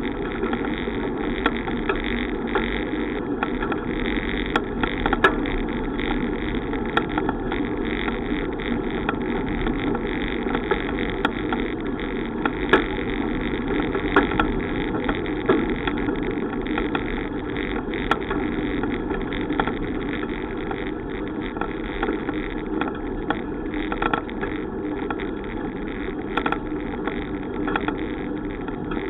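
Steady rushing noise of a bicycle ride, wind on the microphone and tyres on the road, with scattered small clicks and rattles.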